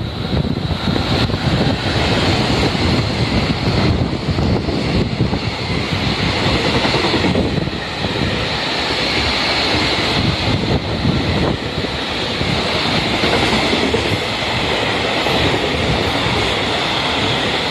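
Freight train hauled by an EF65 electric locomotive passing at speed, its wheels clattering over the rail joints, with a steady high-pitched ring.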